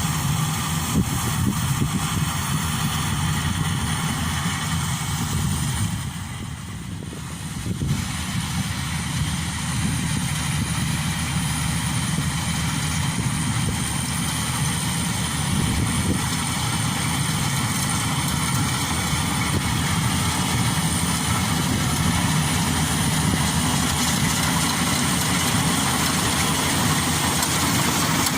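Maxxi Bimo 102 combine harvester's engine running steadily, dipping briefly in level about six seconds in.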